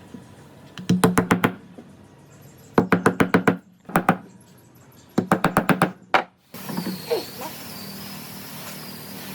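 Quick runs of sharp knocks, about six in each run at roughly eight a second, three runs with single knocks between them. About six and a half seconds in they stop and a steady low hum with a faint high whine takes over.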